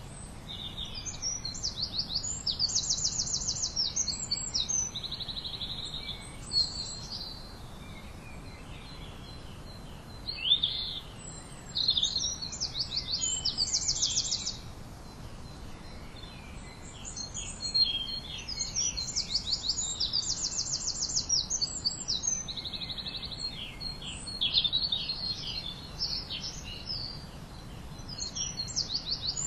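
Songbirds singing: high, rapid trills and chirps in short phrases, repeating every few seconds, over a faint steady background hiss.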